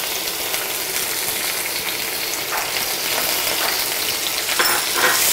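Freshly added chopped tomatoes sizzling in hot oil in a nonstick kadhai, a steady frying hiss, with a spatula stirring them a few times in the second half.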